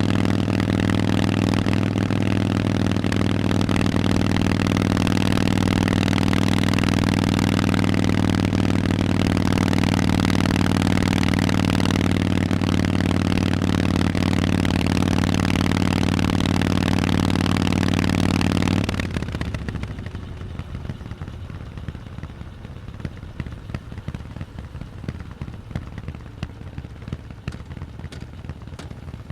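Harley-Davidson Forty-Eight's air-cooled V-twin running steadily through Vance & Hines exhaust pipes, then cutting off abruptly about 19 seconds in. After that there is only a lower, noisy background with faint crackling clicks.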